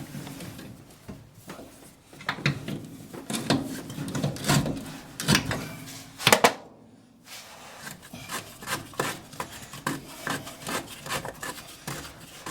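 Hand-tool work on a brake master cylinder cap: irregular rubbing, scraping and clicking of metal as an oil filter wrench is used to work the cap off. Two sharp, loud clicks come a little after six seconds in.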